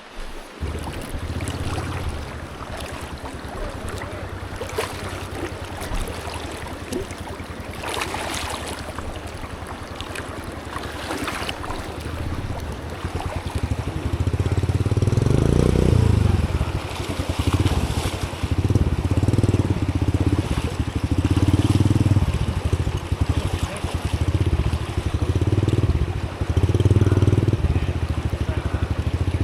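Honda CT110 postie bike's small single-cylinder engine running in river water, quieter at first, then louder and revving in repeated surges from about halfway as the bike is pushed through the crossing.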